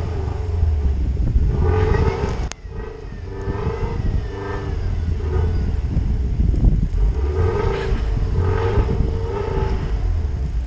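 Car engine revving in repeated bursts of a second or two as it tries to pull out of deep snow, its rising and falling whine over a steady low rumble: the car is stuck, its wheels spinning. The sound breaks off abruptly about two and a half seconds in.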